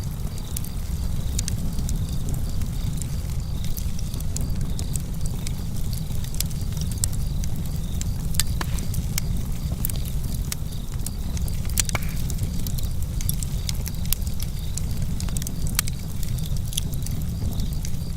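Campfire crackling: frequent sharp, irregular pops and snaps over a steady low rumble.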